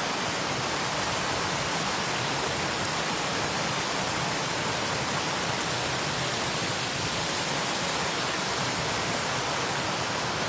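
Small waterfall rushing steadily, an even, unbroken sound of falling water.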